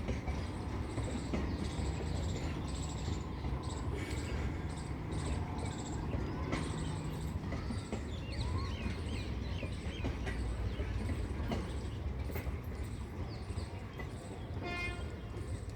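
Goods train wagons rolling past on the track, a steady low rumble, with birds chirping over it.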